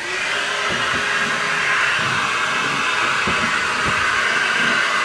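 Dirt Devil 3-in-1 Cordless Reach Max Plus vacuum, used as a handheld without an attachment, switching on and running steadily with a rushing airflow hiss. It is picking up little of the mess: "not really doing anything".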